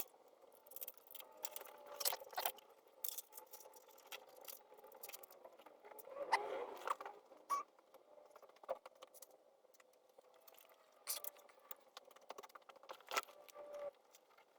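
Faint, scattered clicks, ticks and rustles of a car's wiring loom being handled and tucked up under the dashboard, with a longer rustle about six seconds in.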